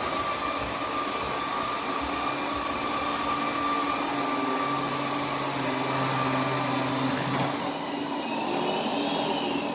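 Roborock Q10V+ robot vacuum running while it mops: a steady machine whir with a few steady tones. A low hum in it drops out about seven and a half seconds in.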